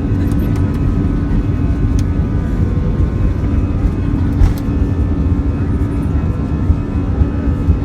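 Jumbo jet's engines heard from inside the cabin during takeoff: a loud, steady rumble with a faint steady hum running through it.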